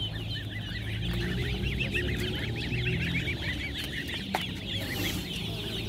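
Many young poultry chicks peeping together in a dense, continuous chorus of short high chirps, with a steady low hum underneath.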